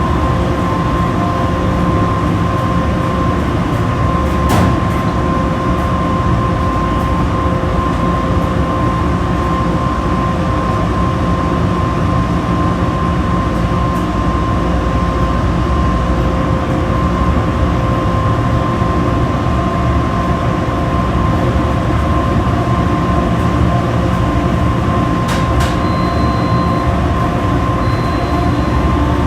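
Washing machine running: a steady low rumble with a constant high whine over it.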